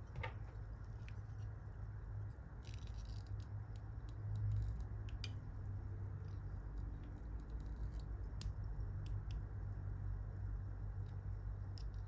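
Scattered small clicks and ticks from fly-tying tools being handled at the vise, over a low steady hum.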